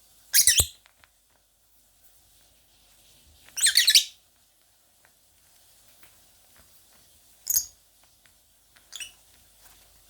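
Pet lovebird giving four shrill, harsh calls in short bursts, the first two longer and loudest, the last fainter; these are the calls its owners liken to a dog barking.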